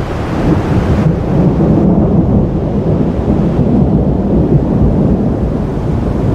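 Thunder rumbling steadily and low through a thunderstorm, with wind noise on the microphone.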